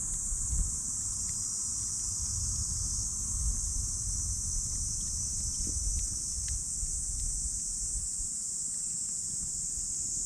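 A steady high-pitched chorus of insects over a burning campfire, with a low rumble and a few faint, scattered wood crackles.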